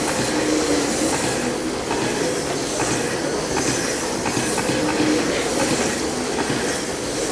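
A pack of RC racing trucks with 17.5-turn brushless motors running on the track: a steady clatter and rush of motors, drivetrains and tyres, with short whines as trucks pass.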